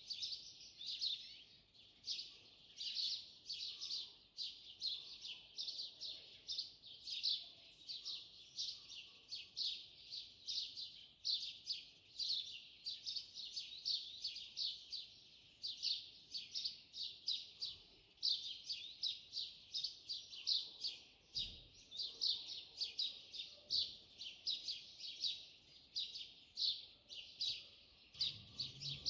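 Small birds chirping in a dense morning chorus: many short, high chirps overlapping several times a second, without a break.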